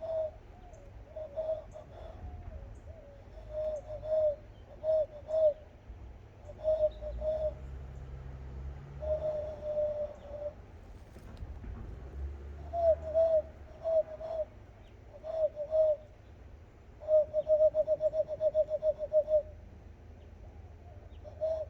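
Person practising bird calls by whistling: short hollow coo-like notes at one steady pitch in groups of two to four, then a fast fluttering run of about ten notes a second about three quarters of the way through. A low rumble of breath on the microphone runs underneath.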